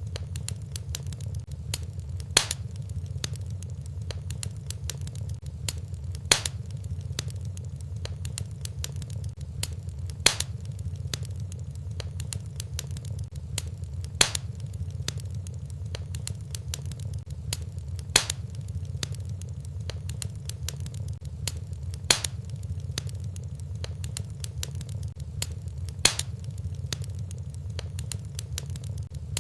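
Fireplace wood fire crackling over a steady low rumble, with a sharp pop about every four seconds and fainter snaps between.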